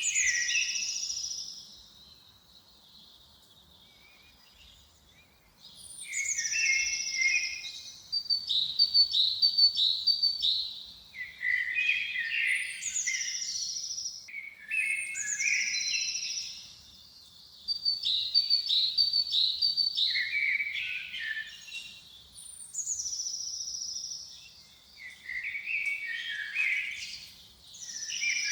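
A songbird singing the same short phrase over and over, roughly every five seconds. Each phrase is a high falling note, a quick run of repeated notes, then a lower flourish at the end.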